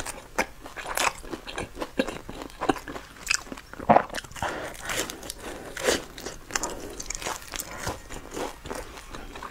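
Close-miked mukbang eating: chewing and biting into crisp pan-fried buns, with irregular wet crunching and mouth clicks and a louder bite about four seconds in.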